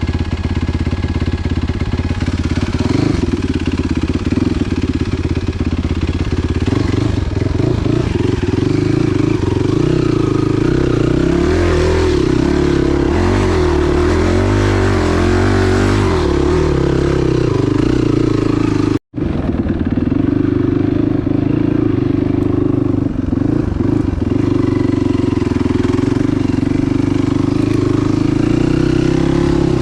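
Enduro motorcycle engine running under way, its pitch rising and falling with the throttle. A brief, complete dropout about two-thirds of the way through.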